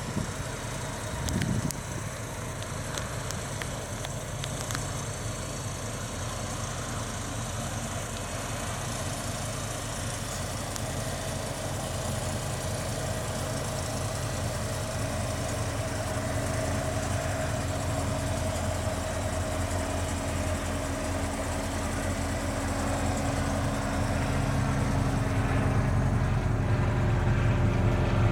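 1985 Ford Mustang GT's 302 V8 running at a steady idle, growing gradually louder toward the end.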